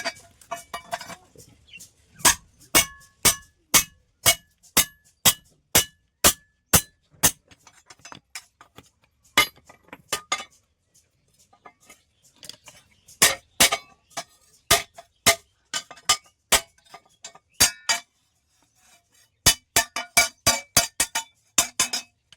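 Hand hammer striking steel plate in runs of regular blows, about two a second, each with a short metallic ring, broken by brief pauses: forging the steel into a hoe.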